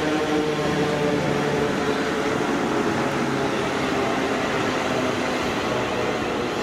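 Passenger train running through the station: a steady rush of wheels on rail, with a low hum of several tones from its drive that fades out about two seconds in.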